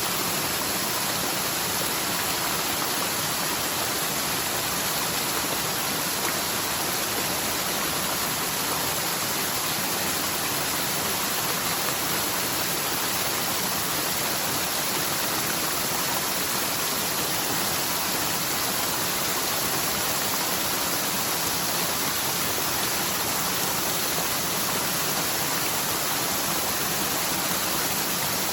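Forest mountain stream running high after typhoon rain, a usually near-dry channel now full of water. The water rushes steadily and evenly, without a break.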